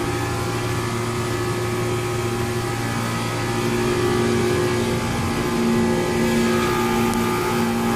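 Carrier reciprocating refrigeration compressor running steadily: a continuous mechanical hum with steady tones, and a higher tone joins about six and a half seconds in.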